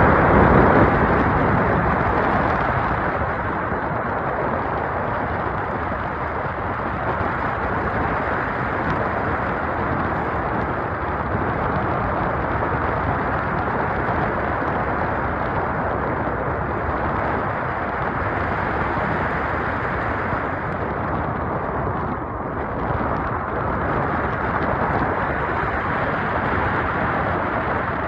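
Steady wind rushing over the microphone in flight, loudest in the first second or so.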